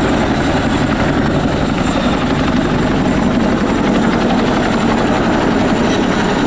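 Boeing Chinook HC6 tandem-rotor helicopter flying past, its rotors chopping and turbines running steadily and loudly.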